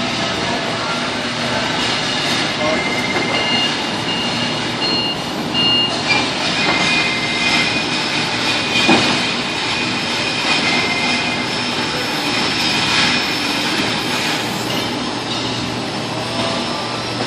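Forklift running and manoeuvring with a steady mechanical noise, short high whines coming and going, and a single knock about nine seconds in.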